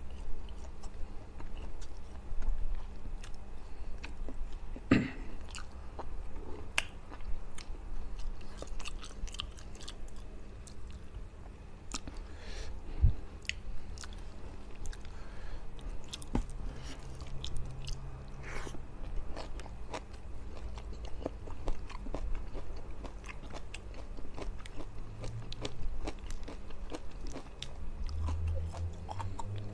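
Close-up eating sounds: a man chewing and biting fish and rice eaten by hand, with many wet mouth clicks and lip smacks and an occasional crunch. A couple of sharper clicks stand out, about five seconds in and again near the middle.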